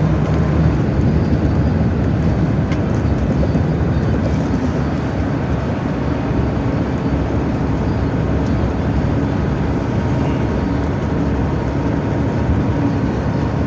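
Truck driving along: a steady rumble of engine and road noise that holds at one level throughout.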